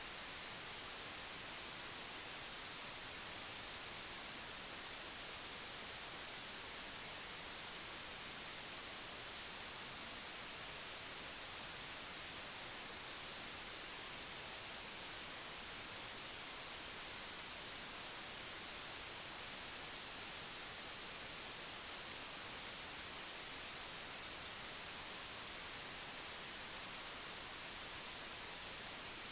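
Steady, even hiss like static, strongest in the highs, with no other sound standing out.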